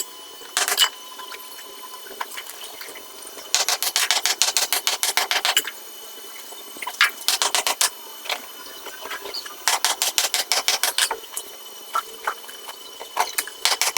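Repeated bursts of rapid, sharp mechanical clicks at about ten a second. The two longest bursts last one to two seconds, with shorter bursts of a few clicks between them.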